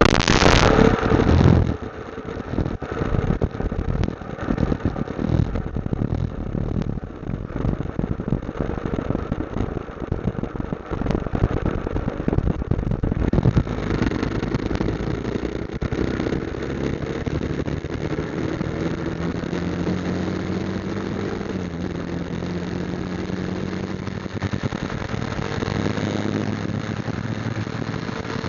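Motorcycle engine running while riding, with rough wind buffeting on the microphone. About halfway through the engine note steadies and slowly rises in pitch as the bike gathers speed. It opens with a second or so of louder noise that cuts off.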